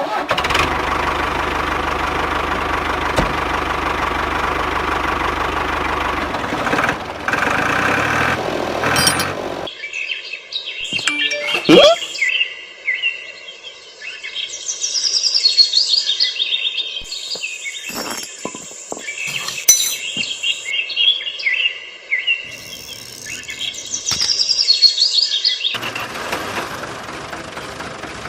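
Birds chirping and tweeting in many short high calls through the middle, between stretches of steady noise with a low hum at the start and near the end.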